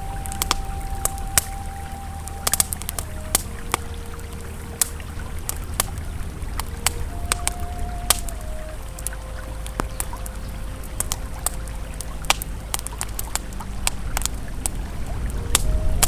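Campfire crackling with frequent sharp pops over the steady low rush of a flowing river. Soft ambient music tones are held underneath, shifting to a new note every few seconds.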